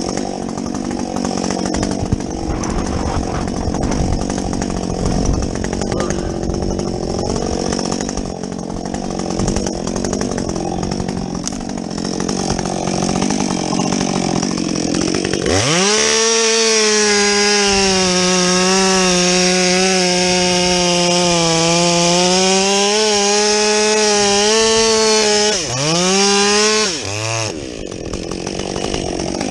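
Muffler-modded Husqvarna 562XP chainsaw working through wood at high throttle. About halfway the engine note jumps to a steady high pitch, dips and recovers once near the end, then falls away as the throttle is let off.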